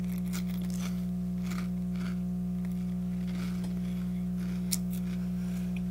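Faint crunching of someone chewing a puffy, airy corn snack (Cheetos Colmillos) over a steady low electrical hum, with a slightly sharper click about three-quarters of the way in.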